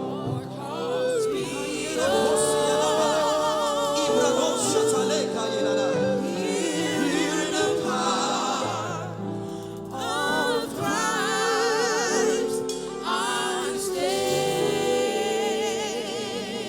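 Live gospel worship music: sung, wordless or drawn-out vocal lines with strong vibrato over held, sustained chords.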